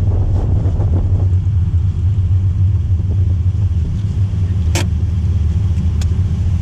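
Silvertop 20-valve 4A-GE engine with individual throttle bodies in a Toyota AW11 MR2, running steadily at low revs, heard from inside the cabin. There is a sharp click about five seconds in and a fainter one a second later.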